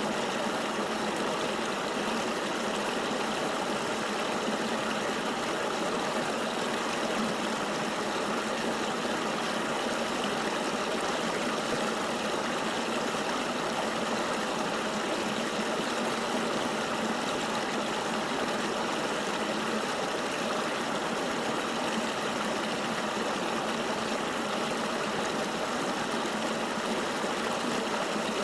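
River water flowing steadily: an even, unbroken rushing hiss with almost no deep rumble.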